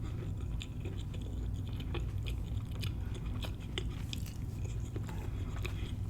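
A person chewing a cornmeal-crusted fried catfish sandwich, with small crunches and mouth clicks at irregular moments over a steady low hum.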